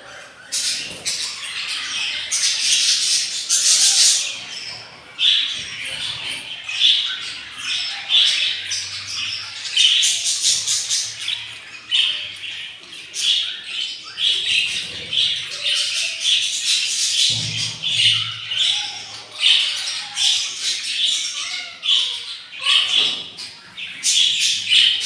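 Budgerigars squawking and chirping in a steady run of short, harsh calls, several a second.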